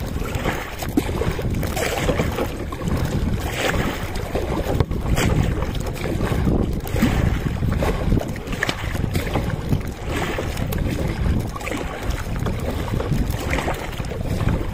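Kayak paddle strokes dipping and splashing in the sea every second or two, under steady wind buffeting the microphone.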